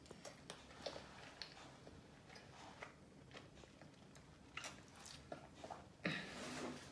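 Close-up mouth sounds of someone eating KFC fried chicken: faint chewing with scattered small crunches and wet clicks. Near the end comes a louder burst with a brief low hum, like a swallow or an "mm".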